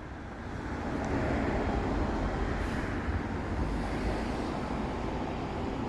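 A road vehicle's engine and tyre noise, swelling over the first second and then running steadily.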